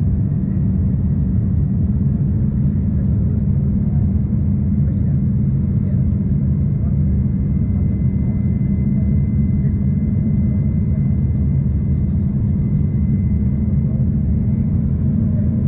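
Cabin noise inside an Embraer ERJ-140 regional jet in flight: a steady low rumble of turbofan engines and airflow, with a faint steady whine higher up.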